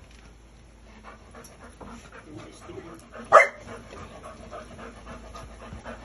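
A dog panting in quick, rhythmic breaths, with one short, loud, sharp sound about three and a half seconds in.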